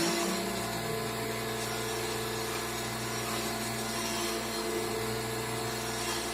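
Program-controlled (CNC) machine tool running through its program: a steady motor hum with a few held tones that step slightly in pitch.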